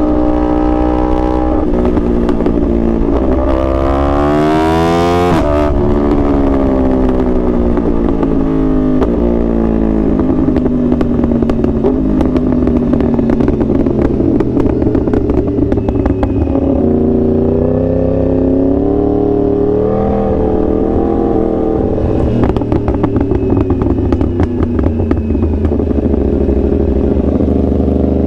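2021 Yamaha R1's crossplane inline-four under hard throttle. The revs climb steeply for a few seconds, then fall away in a long roll-off, hover and waver at cruising speed, and rise again near the end.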